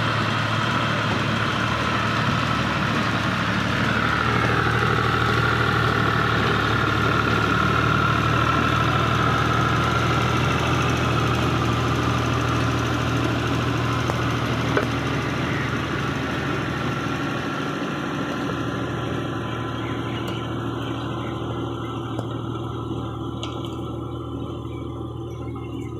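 Al-Ghazi tractor's diesel engine running steadily, its sound slowly fading over the last several seconds.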